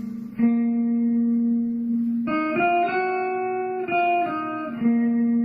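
Slow guitar music: single plucked notes and a chord left to ring out, a new note struck about half a second in, a chord about two seconds in, and another note near the end.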